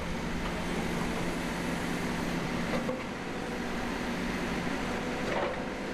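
Backhoe engine running steadily with a constant low hum.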